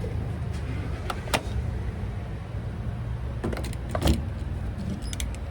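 Pickup truck running on the road, heard from inside the cab as a steady low hum of engine and road noise. A few sharp clicks and knocks sound over it, the loudest about four seconds in.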